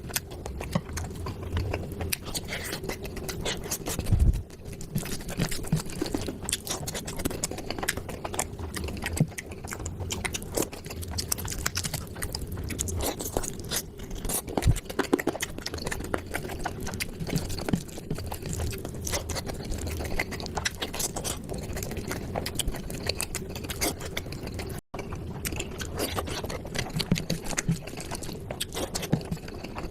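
Close-miked chewing of curry with puri and rice, a steady run of many small wet mouth clicks. The sound drops out for an instant about 25 seconds in.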